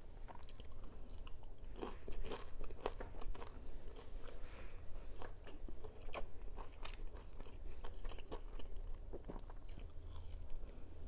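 Close-miked chewing of fried dried fish, with irregular crisp crunches as it is bitten and chewed.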